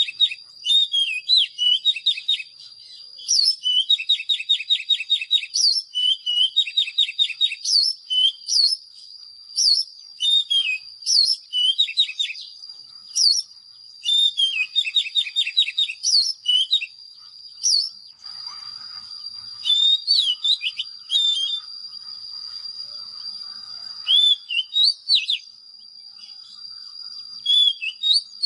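Oriental magpie-robin singing: loud, varied whistled phrases with upslurred notes and rapid trilled runs, pausing briefly between phrases. A steady thin high tone runs underneath.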